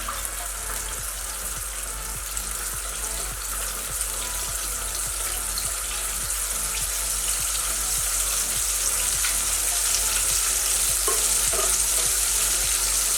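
Spice-marinated chicken legs deep-frying in hot oil in a pan, a dense steady sizzle that slowly grows louder.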